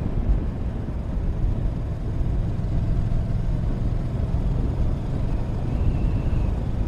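Motorcycle running at a steady riding speed, a continuous low rumble of engine and road noise.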